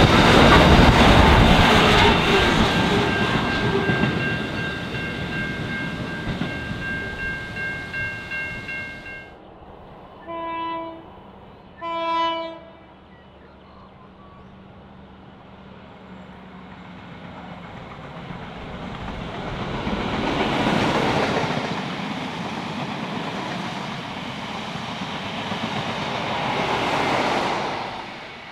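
A loaded freight train of steel-coil wagons rolls past with wheels clattering over the rail joints, with a steady high ringing in its last few seconds, then fades out. Next come two short blasts of a diesel train horn. After that a broad rushing noise swells and fades twice.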